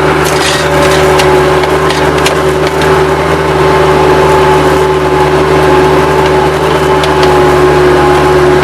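Bobcat 763 skid-steer loader's diesel engine running steadily at working speed, with a few sharp cracks and clicks in the first couple of seconds and again near the end.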